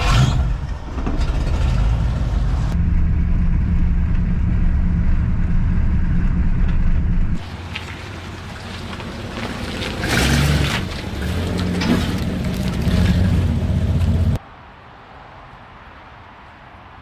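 1962 Ford Galaxie's V8 engine running, with a surge in revs about ten seconds in. The sound changes abruptly several times and drops to a faint steady hum near the end.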